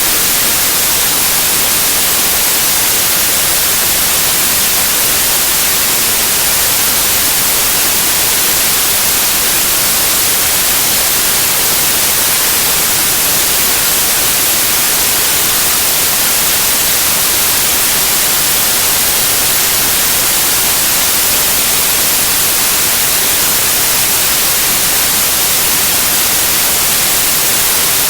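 Steady white noise: an even, unbroken hiss at constant loudness, strongest in the high frequencies, used to soothe a colicky baby to sleep.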